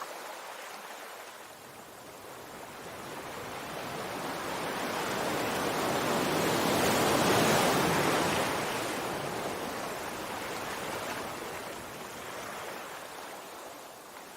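Sea waves: the surf swells up to one loud wave breaking about halfway through, then washes back and fades to a softer hiss.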